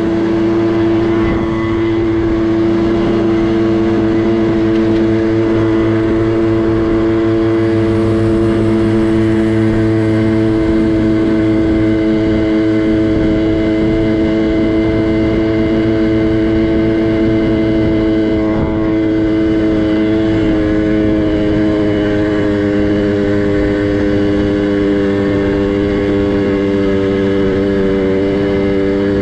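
Small two-stroke minibike engine running at a steady, nearly constant speed as the bike cruises, with a brief dip in sound about two-thirds of the way through.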